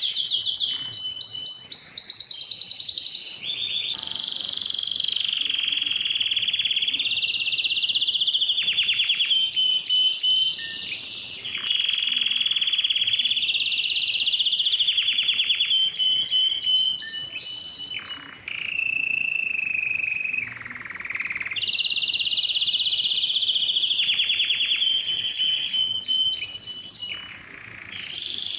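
Domestic canary singing a long, continuous song of rolling trills and rapid repeated notes, dropping briefly a few times before picking up again.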